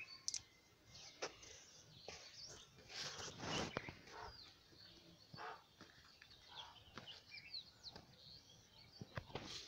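Faint outdoor ambience with scattered short bird chirps and quick whistled glides, a few light clicks, and a short burst of noise about three and a half seconds in.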